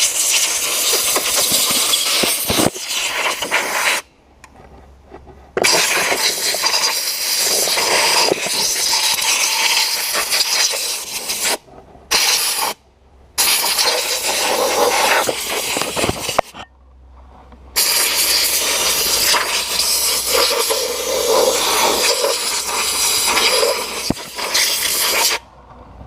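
Compressed air hissing loudly from a hand-held air gun, blowing loose glass bead grit off the engine. It comes in long bursts of several seconds as the trigger is held, with brief pauses about four, twelve and seventeen seconds in.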